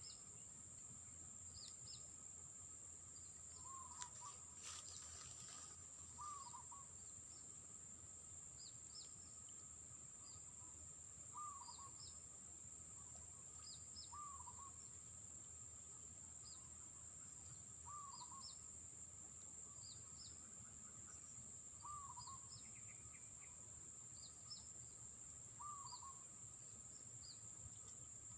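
Faint natural ambience: a steady high-pitched insect drone, a short low call repeated every two to four seconds, and scattered faint high chirps. There is a brief rustle about four seconds in.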